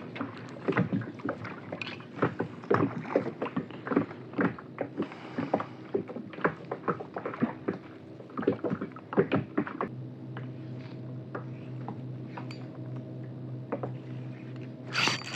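Irregular clicks and knocks of fishing tackle being handled on a kayak. From about ten seconds in, a steady low hum joins and runs on under fewer knocks.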